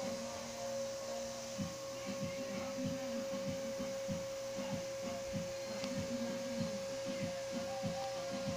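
Air conditioner unit running: a steady hum with one clear high steady tone over it, and a quick low pulsing repeating about two to three times a second.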